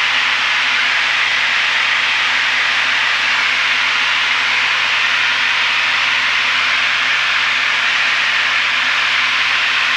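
Steady cabin noise of a Piper PA-32R single-engine plane in flight: engine and airflow as a loud, even hiss with a faint low, steady hum under it.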